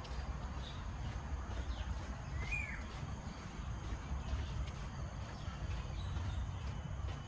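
Park ambience: a steady low rumble, with one short bird call that rises and falls about two and a half seconds in and a few faint high chirps before it.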